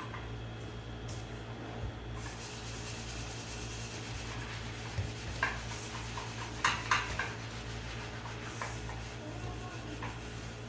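Pizza dough ingredients being mixed in a bowl, a soft rubbing and scraping with a few light clicks against the bowl in the middle, over a steady low hum.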